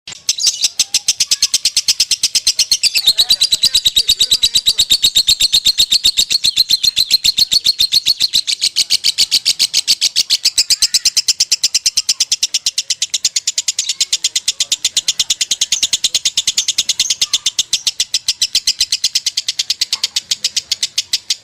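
Lovebird singing a long, unbroken 'konslet' chattering trill: a fast, even run of sharp high notes, about seven a second, that does not pause.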